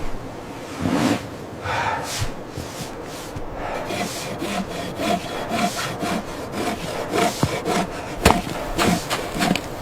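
Wood being sawn by hand, rasping back-and-forth strokes that settle into a steady rhythm of about two a second partway through.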